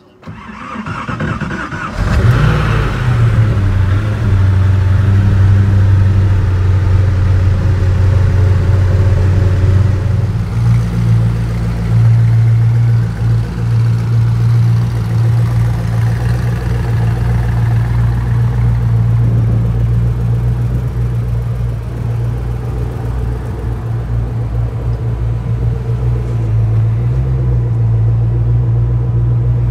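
Koenigsegg Agera RS twin-turbo V8 starting: the starter cranks for about two seconds, then the engine catches with a short rev and settles into a loud, steady idle. Its idle pitch steps up slightly about ten seconds in.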